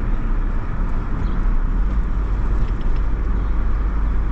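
A car being driven, heard from inside: a steady, deep road-and-engine rumble with tyre noise and no change in pace.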